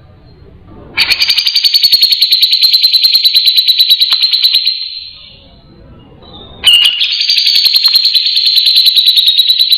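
Cucak jenggot (brown-cheeked bulbul) giving two long, harsh, rapidly pulsing rattling calls, the second starting about a second and a half after the first ends.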